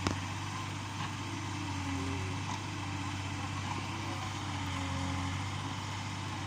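Yanmar B37 mini excavator's diesel engine running steadily under a low, even drone, with a sharp click right at the start and a lighter one about a second in.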